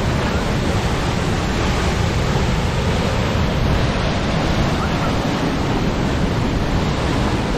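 Steady, loud rushing of river water.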